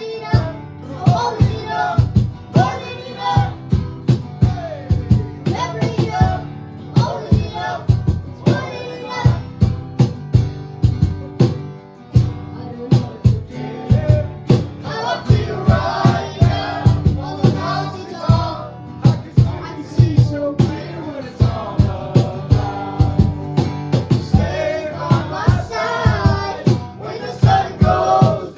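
Live worship band music: singing voices over instruments with a steady drum beat.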